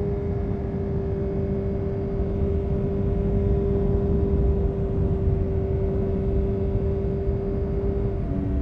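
2000 Honda CBR929RR Fireblade's inline-four engine through an Erion Racing full exhaust, running at a steady pitch while riding. Near the end the pitch drops abruptly and then settles again.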